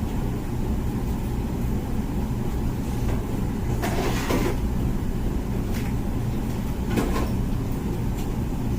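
Comfee dishwasher running its wash cycle: a steady low hum from the circulation pump under the sound of water spraying inside the tub. A louder swish of spray comes about four seconds in and again about seven seconds in.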